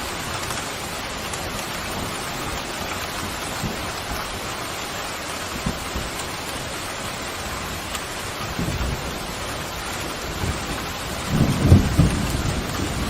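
Steady rain falling, with a roll of thunder rumbling in about two-thirds of the way through and growing loudest near the end.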